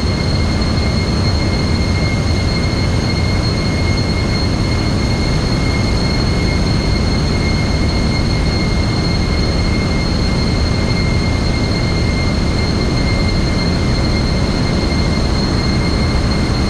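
Steady, loud machinery noise of a container ship's engine room, with a constant high-pitched whine over a deep rumble.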